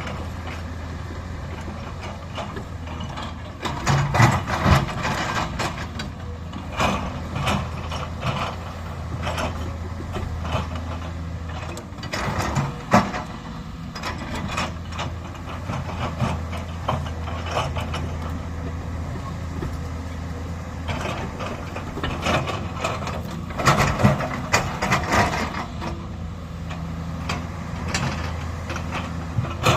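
JCB excavator's diesel engine running steadily, with bursts of metal clanking and scraping from the machine at work, the loudest about four seconds in and again about twenty-four seconds in.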